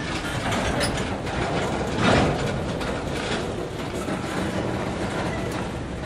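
A train passing close by, its wheels rumbling steadily over the rails with a louder clank about two seconds in.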